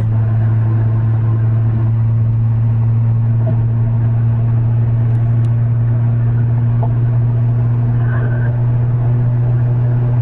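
Straight-piped third-generation Acura TL's V6 exhaust droning at a steady highway cruise: one loud, deep note that holds its pitch.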